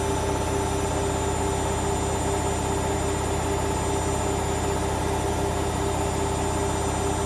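Hoover Vision washing machine running mid-cycle: a steady motor whine with a fine rapid pulsing beneath it, unchanging throughout.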